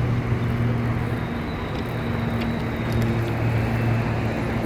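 Street traffic noise with a steady low engine hum running underneath.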